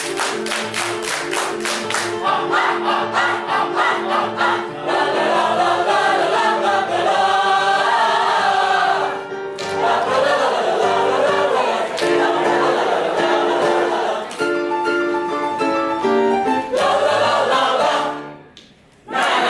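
A choir singing in harmony with sustained chords, with a quick rhythmic pulse in the first two seconds. The singing breaks off briefly about halfway through and again shortly before the end.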